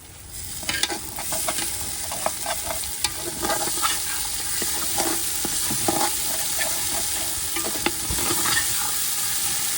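Curry frying and sizzling in a pot, with a spoon scraping and knocking against the pot as it is stirred.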